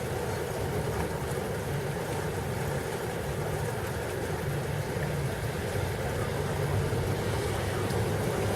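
Steady noise of heavy rain and wind from a thunderstorm, with a constant low rumble underneath and a few faint ticks.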